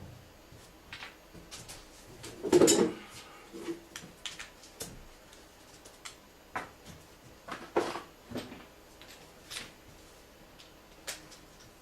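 Scattered knocks, clicks and clinks of tools and parts being handled during car repair work, with the loudest clatter about two and a half seconds in.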